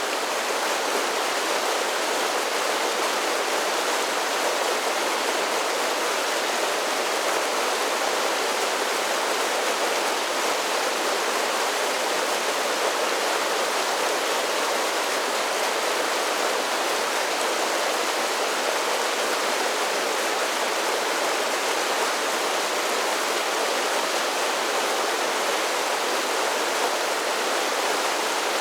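Mountain creek water pouring over a series of small waterfalls, a steady, even rush of falling and splashing water.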